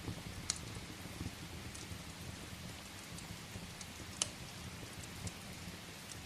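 Steady rain with a low rumble, over which a wood fire crackles: scattered sharp pops, the two loudest about half a second in and just after four seconds in.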